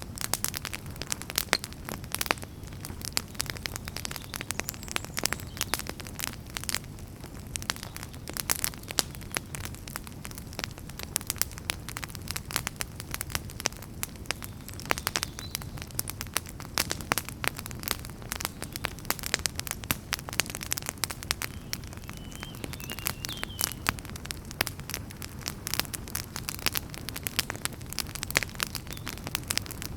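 Fire crackling in a fireplace: frequent irregular pops and snaps over a low, steady rumble of the flames.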